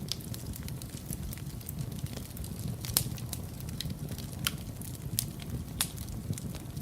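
Fireplace fire crackling: scattered sharp pops and snaps over a low, steady rumble of burning, with the loudest pop about three seconds in.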